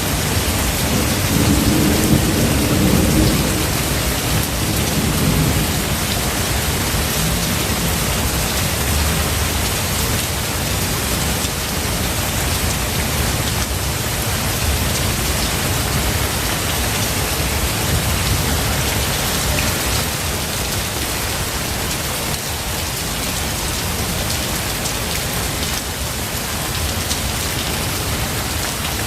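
Steady rain falling, with a low rumble of thunder rolling through in the first few seconds and strongest about two seconds in.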